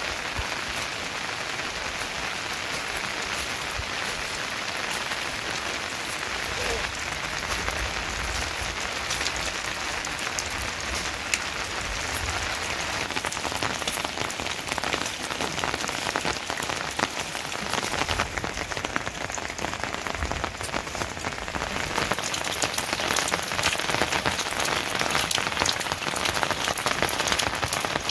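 Steady rain falling on a surface, with the patter of many individual drops; it grows heavier and busier in the second half.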